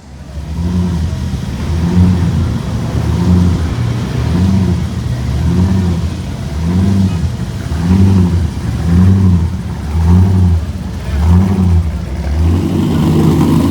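A car engine revved over and over, its pitch climbing and dropping about once a second, some ten times, then held at a steadier, higher speed near the end.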